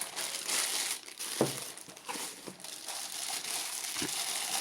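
Packing material crinkling and rustling as mugs are unwrapped and handled, with about four light knocks.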